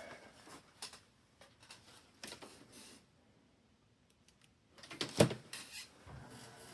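Scattered clicks and handling knocks of cables being plugged in, with the sharpest click about five seconds in. A faint steady hum starts near the end.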